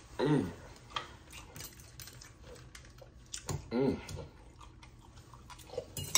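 Close-up mouth sounds of a person chewing food, with small sharp clicks of a fork on a plate. Two short vocal sounds break in, one just after the start and one just under four seconds in.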